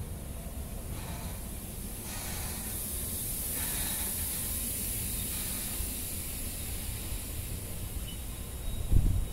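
Intermodal freight train carrying semi-trailers rolling slowly past: a low rumble under a steady high hiss, strongest midway. A short loud low thump comes near the end.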